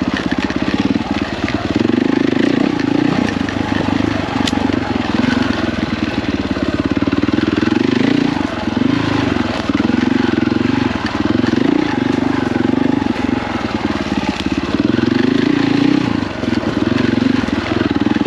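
KTM 450 EXC single-cylinder four-stroke enduro engine being ridden hard on a tight trail, the throttle opening and closing so the engine note rises and falls every few seconds.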